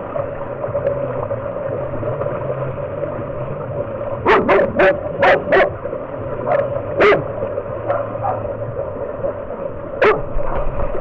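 Dog barking: a quick run of about five barks about four seconds in, then single barks twice more, over a steady hum.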